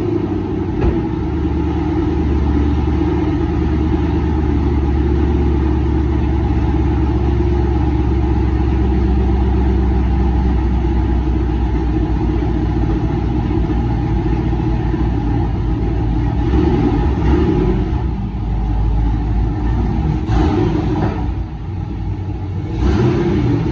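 Pickup truck engine just after a cold start, running at a steady idle. Near the end it is blipped with a few short revs.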